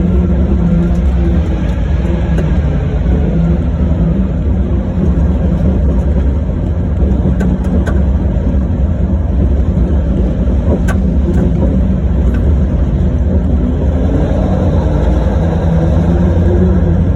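Large diesel engine of an 830 mining haul truck running with a loud, steady low drone.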